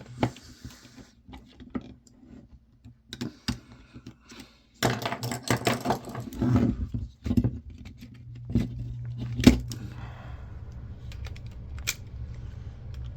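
Hand tools clicking, scraping and rattling against the plastic and metal parts of an old camcorder being taken apart, with a dense stretch of clattering about five seconds in and one louder knock near the ten-second mark. A steady low hum sets in about halfway through.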